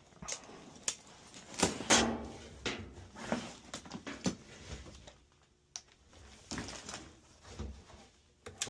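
Dryer vent cleaning rod and brush being worked through the duct: irregular knocks, clicks and scrapes, loudest about two seconds in.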